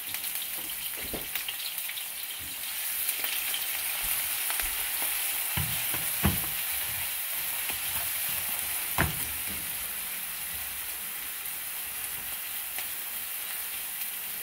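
Vegetables sizzling in oil in a large wok-style pan on a gas burner while a spoon stirs them. The sizzle grows louder a few seconds in, and the spoon knocks sharply against the pan twice.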